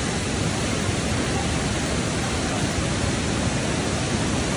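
Steady, loud rushing noise of a tropical cyclone's storm, with no break or change.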